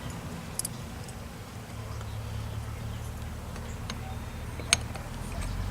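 A few sharp clicks and taps of small metal carburetor parts being handled and fitted by hand, the loudest shortly before the end. Under them runs a low steady hum that starts about two seconds in and grows louder near the end.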